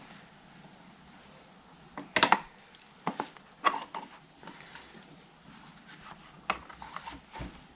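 Scattered clicks and clinks of hand tools and small metal parts being handled, with a short clatter about two seconds in and single knocks after it.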